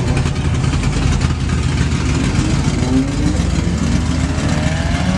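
Car engine running at a low, steady note, then revving up with rising pitch from about halfway through, as the car is driven into a donut.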